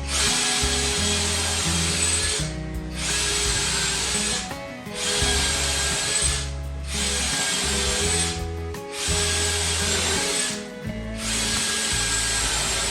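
Electric power tool running in six short bursts of about two seconds each, stopping briefly between them, with a steady high whine in each burst. Background music plays underneath.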